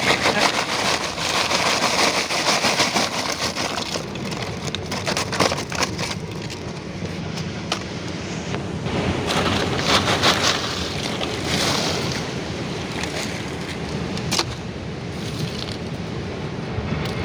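Ocean surf breaking on the shore: a steady rush of waves that swells louder a couple of times.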